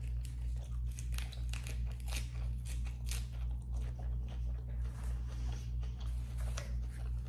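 Close-up chewing of an Asian chicken lettuce wrap: irregular crisp crunches and mouth sounds as the lettuce and filling are bitten and chewed, over a steady low hum.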